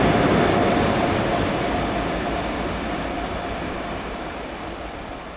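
Steam-hauled train running past, a steady rumble and hiss that fades away as it goes.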